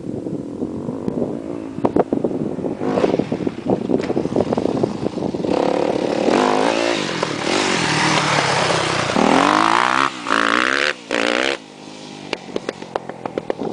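Yamaha YZ250F four-stroke single-cylinder dirt bike engine revving, its pitch rising and falling repeatedly as the throttle opens and closes. Two short, sharp bursts of throttle come near the end before it drops to a lower, uneven note.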